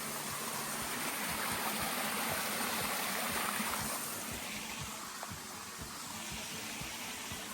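Flowing water rushing steadily in an even hiss, from a stream or falls, with scattered low thumps on the microphone.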